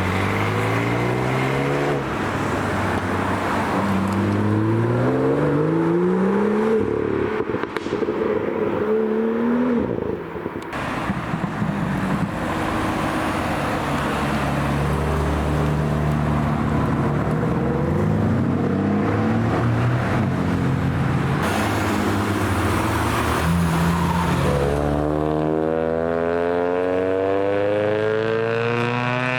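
Car engines accelerating hard, several runs one after another, each revving up through the gears in rising sweeps of pitch. A loud, steep run up the revs fills the last few seconds.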